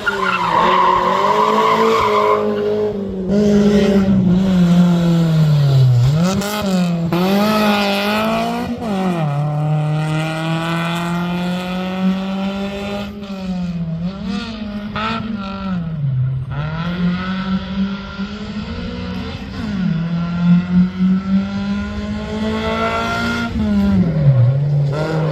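Rally car engine driven hard, its pitch climbing and dropping back again and again through gear changes and lifts. There is tyre squeal in the first couple of seconds.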